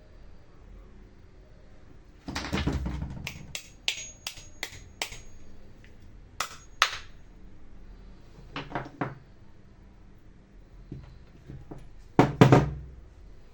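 Irregular knocks, taps and clicks of tools and small parts being handled, with a louder clatter a couple of seconds in and another near the end.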